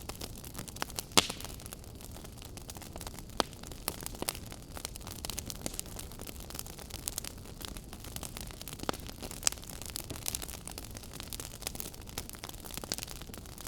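Wood fire in a fireplace crackling: irregular sharp pops and snaps over a steady low rush of burning flame, with the loudest pop about a second in.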